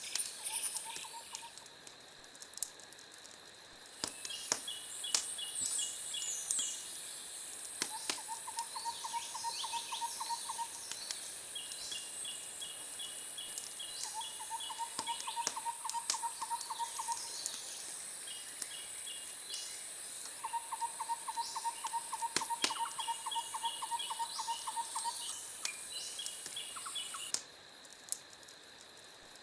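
Nature ambience of calling animals: several rapid trills, each a quick run of evenly spaced chirps lasting two to three seconds, some lower and some higher in pitch. Under them a steady high-pitched insect-like buzz cuts off a couple of seconds before the end, with a few sharp crackle-like clicks scattered through.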